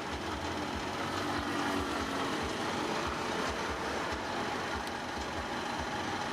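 Diesel engine of heavy earthmoving machinery running steadily, with a low, uneven pulsing throb beneath.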